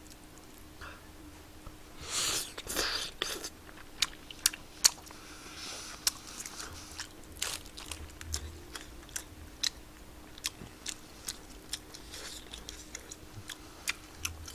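A person chewing tteokbokki (chewy rice cakes in sauce) close to the microphone, with many small wet mouth clicks and a louder noisy mouth sound about two seconds in.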